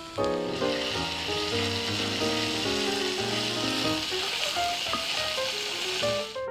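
Finely minced bits sizzling in hot oil in a frying pan as a wooden spatula stirs them. The sizzle starts about half a second in and cuts off suddenly at the end.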